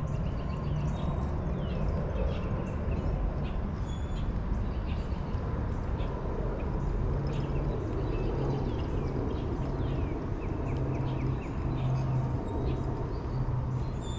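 Birds chirping outdoors, many short falling chirps scattered throughout, over a steady low rumble.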